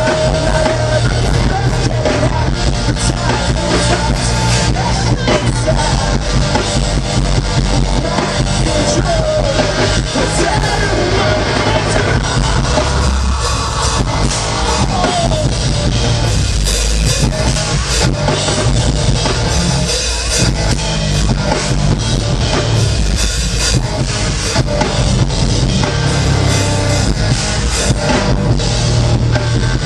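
Live rock band playing loud and steady, with distorted guitars, bass and a full drum kit.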